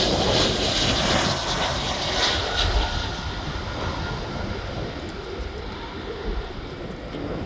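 Jet airliner's engines at takeoff power, a loud broad rumble with a hiss above it, loudest in the first three seconds and slowly fading as the plane climbs away.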